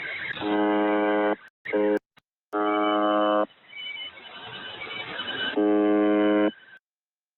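UVB-76 shortwave station's buzzer tone received over the radio: four buzzes, most about a second long and one short, with radio static hissing and swelling in the gaps. The signal drops out briefly a couple of times and cuts off near the end.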